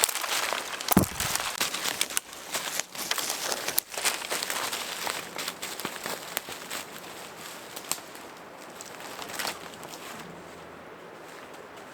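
Crackling and crunching of dry leaves and twigs on the forest floor, with irregular snaps and one heavier knock about a second in. It is busiest in the first half and thins out later.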